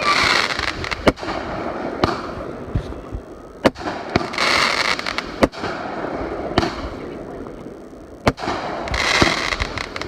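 Fireworks going off: sharp bangs every second or two, with stretches of hissing crackle between them.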